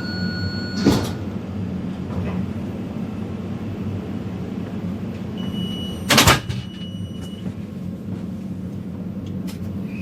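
Metro train running, heard from inside the car: a steady low rumble with faint thin whining tones. Two sharp knocks cut through it, one about a second in and a louder one about six seconds in.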